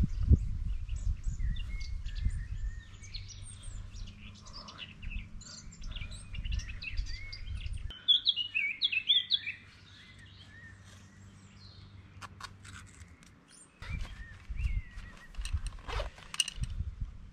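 Wild songbirds chirping and warbling in woodland, busiest about halfway through, over a low rumble. A few sharp clicks and rustles near the end.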